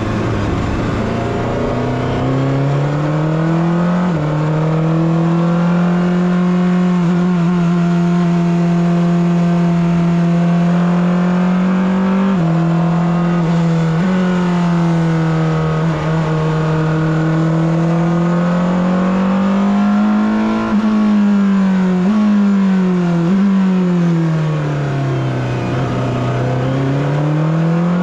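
Porsche 963 RSP's twin-turbo V8 race engine heard from onboard, pulling up through the gears with quick upshifts about four seconds in and again near twelve and fourteen seconds. The revs hold steady in between, then fall away with short throttle blips on downshifts and climb again near the end.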